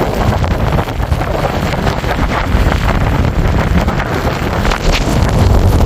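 Snowstorm wind buffeting the microphone, a loud, gusty rush with heavy low rumble.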